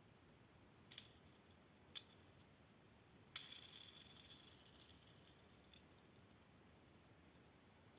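Small toys being handled: two light clicks, then a brief rattling jingle that fades out.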